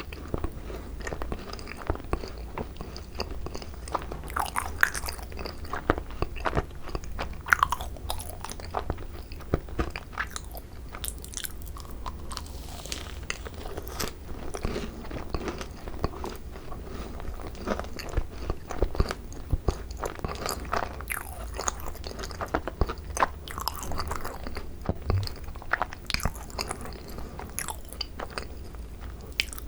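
Close-miked biting and chewing of thick cream-filled Korean macarons (ttungcaron), with many irregular crunches of the shells.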